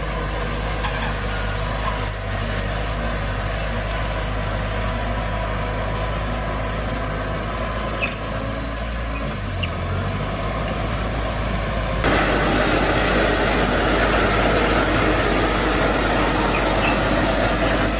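Heavy diesel engine of earthmoving equipment running steadily, with a couple of sharp clicks. About two-thirds of the way in it gets suddenly louder and rougher.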